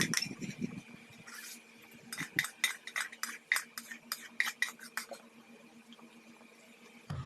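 Spoon clinking against a dish in a run of quick, sharp taps from about two to five seconds in, after a soft low sound at the start.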